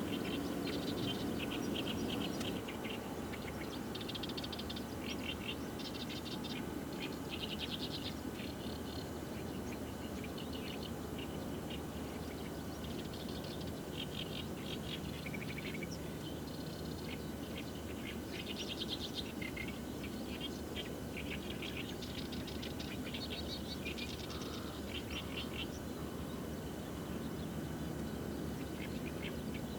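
Wild birds calling, with many short rapid trills high in pitch coming and going over a steady low background rumble.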